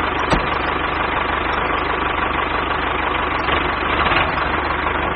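Steady running of a small machine, like an idling engine, with a fast even beat underneath and one sharp click about a third of a second in.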